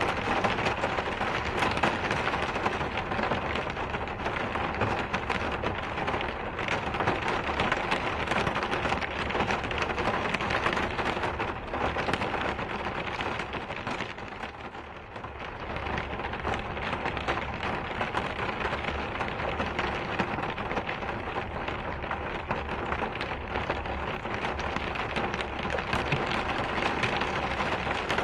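Steady rain falling, an even wash of dense drops that eases slightly for a moment about halfway through.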